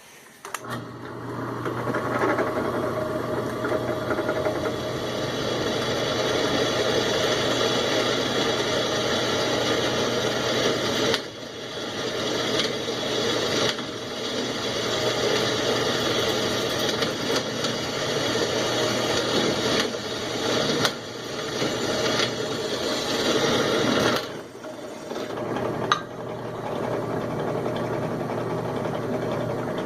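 Electric drill running steadily, drilling a rivet hole through a welded metal piece. The sound briefly drops away about eleven seconds in and again about a dozen seconds later, then picks up again.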